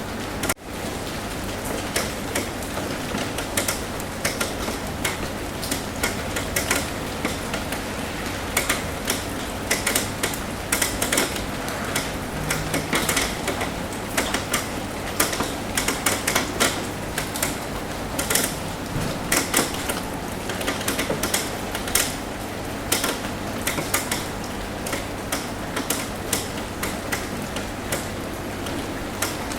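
Rain on a roof: irregular, sharp drops tapping over a steady patter. There is a brief dropout about half a second in.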